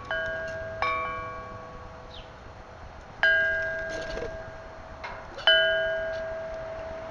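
Metal chimes ringing: four struck notes at irregular intervals, each a cluster of bell-like tones that fades slowly, the loudest about three and five and a half seconds in.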